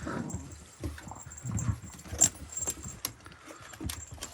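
Small bells on puppies' collars jingling irregularly as the puppies move about, with scattered light clinks and scuffles; one sharper clink about two seconds in.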